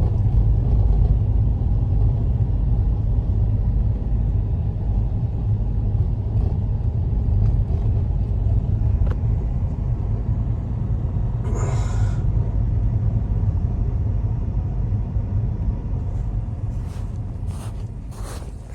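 Wind buffeting the microphone in a snowstorm: a loud, steady low rumble with no engine note, with a brief hiss about twelve seconds in, easing off near the end.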